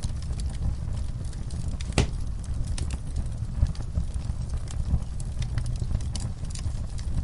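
Wood fire crackling in a fireplace: a steady low rumble of the flames with scattered sharp pops and snaps, one louder pop about two seconds in.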